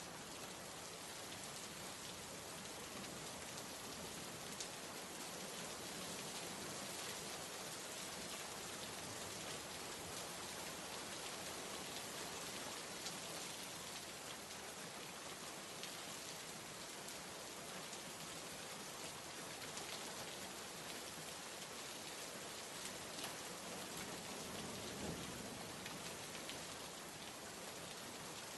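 Steady rain ambience: an even hiss of rainfall with scattered drop ticks, unchanging throughout.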